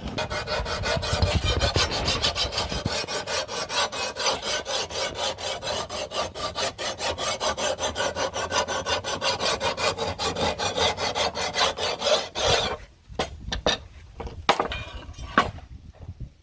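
A knife blade being sharpened by hand with rapid, even back-and-forth scraping strokes, about five a second, which stop near the end and give way to a few separate strokes.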